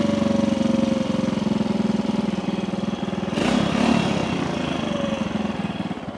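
Honda C200's small single-cylinder engine idling a little fast, just after being brought back to life, with a brief louder surge about halfway through.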